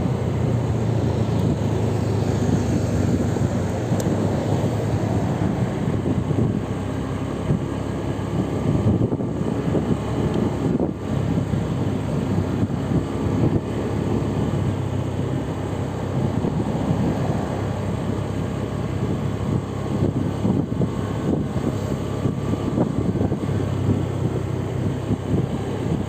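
Steady rumble of vehicle and road noise, with some wind on the microphone.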